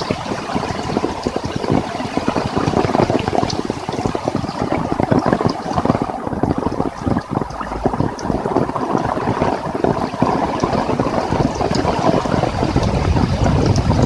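Heavy rain falling hard in wind: a dense, steady patter of drops, with a low rumble swelling near the end.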